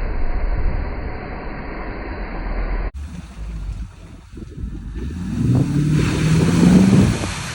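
Range Rover driving off-road, its engine running with a low rumble. After a cut about three seconds in, wind buffets the microphone and the engine revs up and back down, loudest a little before the end.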